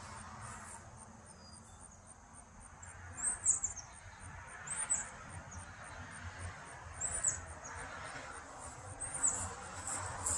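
A high, evenly pulsing insect trill, about three pulses a second, runs steadily throughout. Short high bird chirps come every two seconds or so, the loudest about three seconds in.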